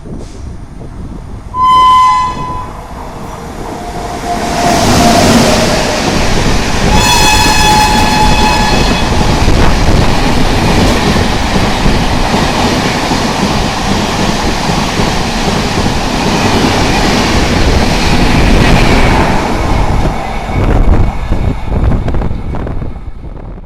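Train horn sounded twice, a short blast about two seconds in and a longer one about seven seconds in, as a train comes up and passes at speed with a loud steady rush of wheels on the rails.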